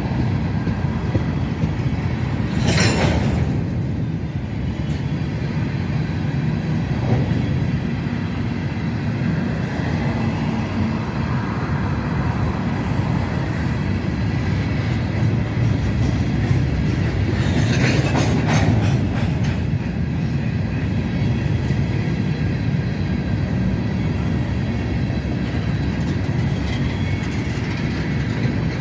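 Freight train cars rolling past with a steady rumble and clatter of steel wheels on the rails. Two short high screeches from the wheels stand out, about three seconds in and again near eighteen seconds.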